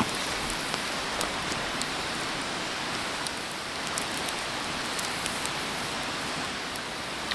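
Food sizzling on a grill over a charcoal fire: a steady hiss with scattered sharp pops and crackles.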